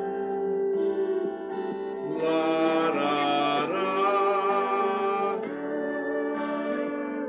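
Guitar playing under a voice singing a wordless 'la-ra-rá' melody, with the voice swelling fuller and louder in the middle.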